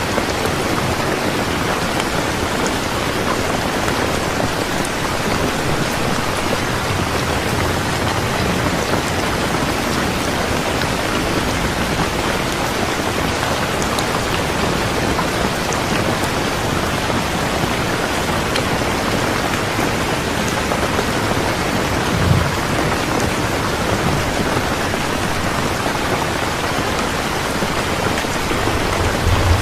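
Steady, even rain falling on a surface, a continuous hiss of drops. Two brief low thumps break through, one about three quarters of the way in and one at the very end.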